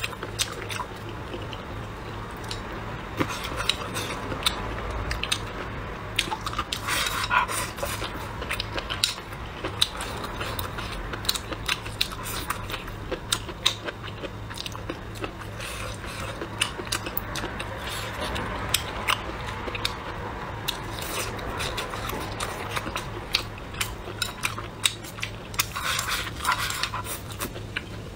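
Close-up chewing and biting of food, with frequent sharp clicks of chopsticks tapping and scraping against the bowl.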